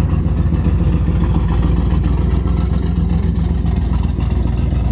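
A classic car or truck's engine idling steadily, a deep, even running sound.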